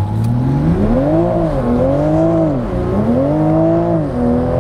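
Toyota GR Supra's engine, fitted with an aftermarket downpipe and GPF bypass, accelerating hard at full throttle from a standstill. The engine note climbs and drops back three times, about every 1.2 seconds, as the gearbox shifts up.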